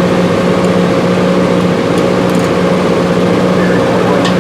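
Steady mechanical drone of an engine or motor running at constant speed, with no change in pitch or level.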